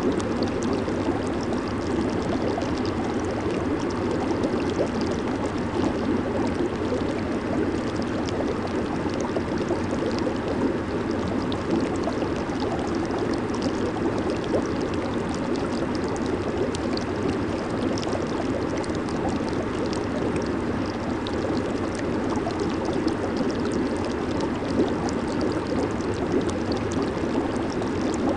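Jacuzzi water churning and bubbling steadily, an even rush with small splashy ticks throughout.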